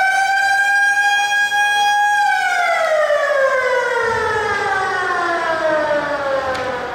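Arena siren winding up to a steady wail, then sliding slowly down in pitch about two seconds in as it winds down.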